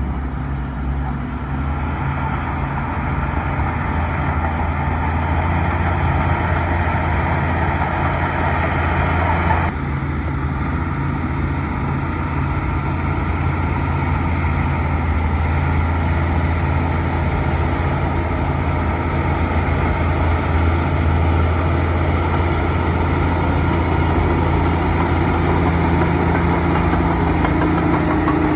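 Bulldozer's diesel engine running steadily with a low hum. The sound changes abruptly about ten seconds in, its upper part dropping away.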